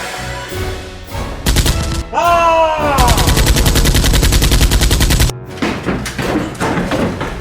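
Rapid automatic gunfire, a fast even burst of shots about a dozen a second lasting a little over two seconds and stopping abruptly, after a short falling tone; it sounds like an added sound effect rather than a real Nerf blaster.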